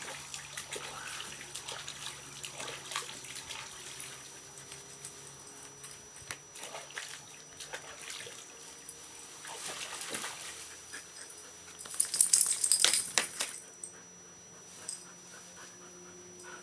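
A dog being bathed: water sloshing and splashing with scattered knocks as she moves about in it, then a loud burst of jingling and rattling about twelve seconds in that lasts a second or so.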